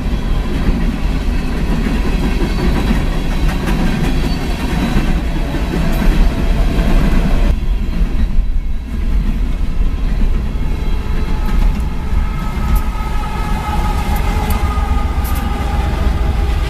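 Train rolling past close by: a steady heavy rumble of wheels on rail with some clacking over the joints. A faint steady whine comes in during the second half.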